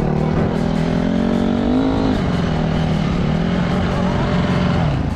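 Motorcycle engine running while riding; its pitch climbs to about two seconds in, then drops back and holds fairly steady.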